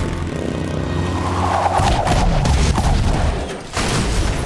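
Film action sound effects: a rapid run of gunshots and crashing impacts over a loud low rumble, with a swell of noise about two seconds in.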